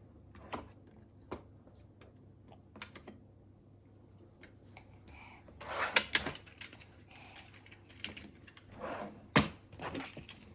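Small clicks and taps of a die-cast 1:32 toy Jeep being handled, its little doors clicking open and shut. The sharpest snaps come about six seconds in and again near nine and a half seconds.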